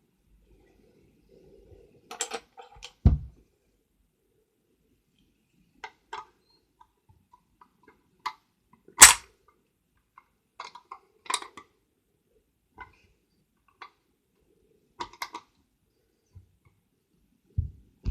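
Scattered sharp clicks and knocks, a dozen or so separate taps with quiet between, the loudest about three and nine seconds in.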